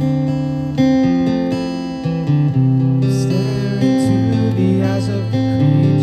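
Acoustic guitar strumming chords, each left to ring before a new chord is struck about every second or so.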